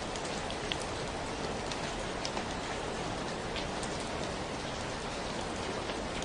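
Steady rainfall, with individual drops ticking sharply now and then over a constant hiss of rain.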